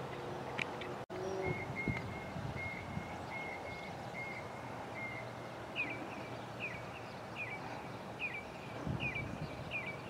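Birds chirping: a run of short, even notes in the first half, then a bird repeating a quick falling chirp over and over, above a low, steady outdoor rumble. The sound cuts out completely for an instant about a second in.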